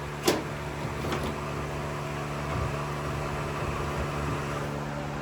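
A steady machine hum holding a few even tones, with a sharp click about a third of a second in and a fainter click about a second in.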